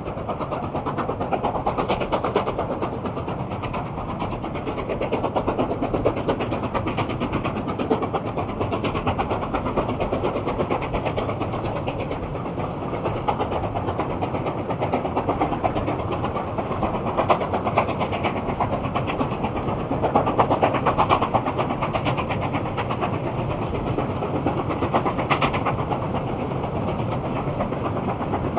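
China Railways QJ-class 2-10-2 steam locomotive working, a continuous dense run of exhaust beats and steam hiss mixed with wheel and rail noise, swelling and easing in loudness.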